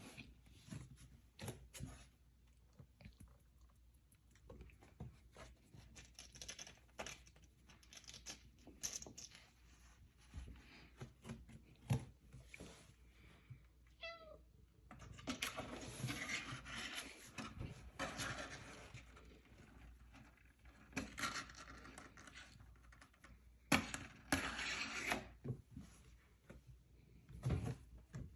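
Pet cat with one short meow about halfway through, among scattered light knocks and taps and several bursts of rustling noise.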